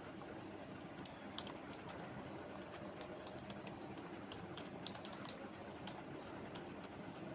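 Typing on a computer keyboard: irregular keystroke clicks, several a second in spurts, over a steady hum of background noise.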